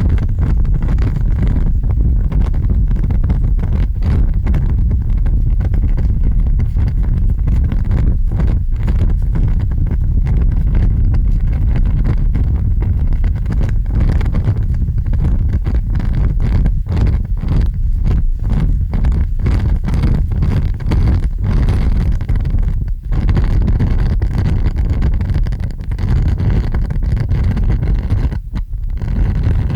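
Large fire burning with a loud, deep, steady rumble that flickers rapidly in level, like a blaze in a strong draught.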